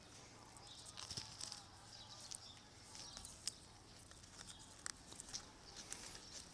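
Faint outdoor ambience: scattered light clicks and rustles, with faint high bird chirping in the background.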